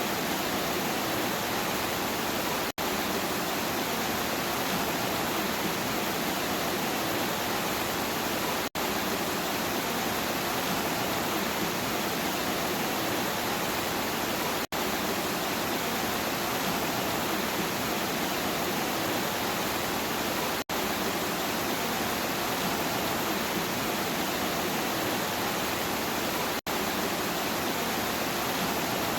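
Steady rain noise with no thunder. It drops out very briefly about every six seconds, the seams of a short repeating recording.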